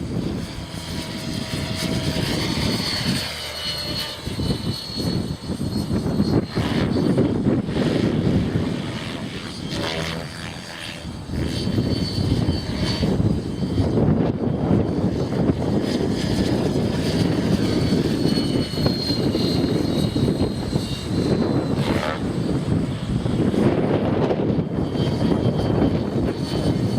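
Electric Align T-Rex 600E Pro RC helicopter flying, its motor and rotor whine drifting up and down in pitch. Heavy wind buffets the microphone with a gusting low rumble throughout.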